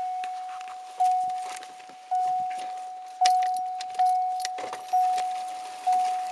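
A vehicle's warning chime dinging about once a second, a single clear note that fades after each strike, with faint clicks and rattles between the chimes.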